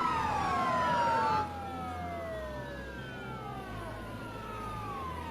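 Several emergency-vehicle sirens sounding together, their wails gliding slowly down in pitch. They are louder for about the first second and a half, then fainter, over a low steady rumble.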